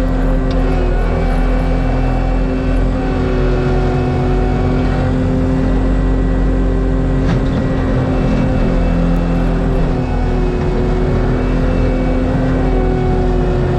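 Forestry mulcher on a compact track loader running under load, its diesel engine and mulching drum grinding up wood. The steady drone shifts slightly in pitch a few times as the load changes.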